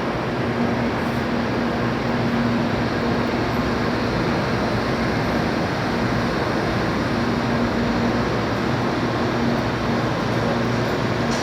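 Steady hum of a Shinkansen train, an even noise with a low steady tone running through it.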